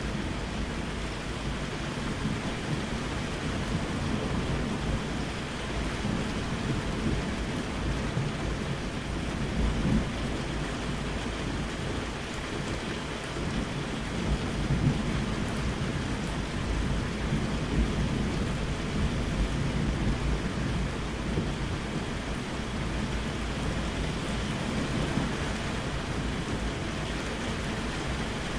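Steady rain with low, rolling thunder rumbling beneath it, swelling a little about ten and fifteen seconds in.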